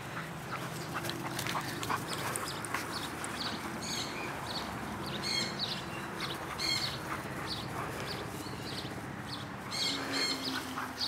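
Outdoor yard ambience with birds chirping in short, high calls repeated every second or so.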